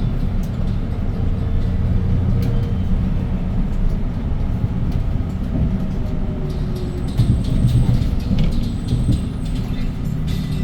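Hyundai Green City city bus running with its CNG engine (C6GB G240, 240 ps) under way, a steady low drone with small clicks, heard from inside the bus; the engine grows a little louder for a couple of seconds past the middle.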